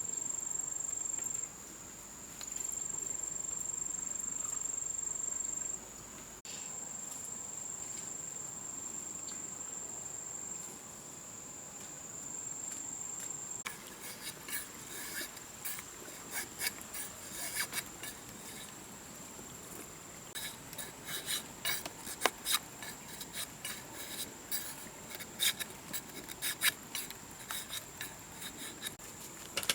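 Insect buzzing: a high, steady drone that breaks off and starts again a few times. From about halfway, a run of sharp scraping and rasping clicks comes in over it.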